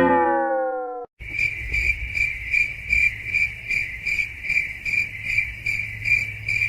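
A ringing tone slides down in pitch and fades in the first second. After a short gap, cricket chirping starts abruptly and goes on evenly at about three chirps a second.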